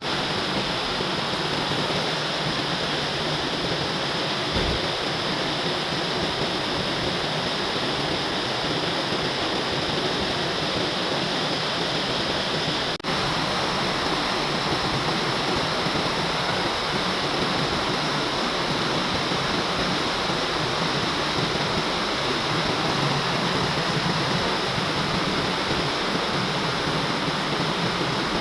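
Steady rain falling, an even hiss of water that keeps the same level throughout, with one very brief dropout about halfway through.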